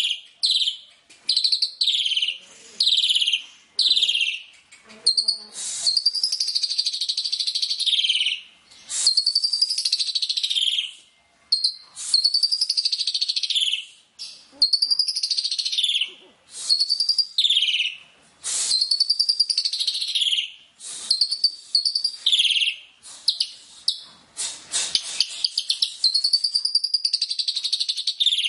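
White-rumped shama (murai hutan) singing: a rapid string of loud, varied whistled phrases, many rising and falling in pitch, some fast buzzy trills, each lasting from about half a second to two seconds with brief gaps between.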